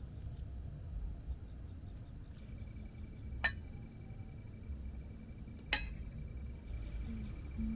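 Steady high insect chirring, typical of crickets, over a low rumble, with two sharp clinks about two seconds apart.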